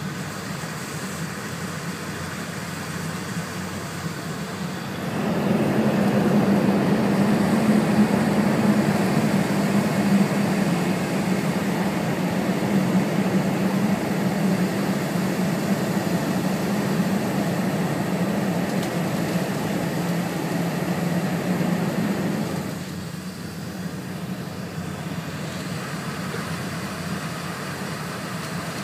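Steady interior running noise of an E4 series Max double-decker Shinkansen at speed. About five seconds in it grows markedly louder, with a strong low hum, as the train runs through a tunnel, and it drops back to the quieter open-line level about three quarters of the way through as the train comes out.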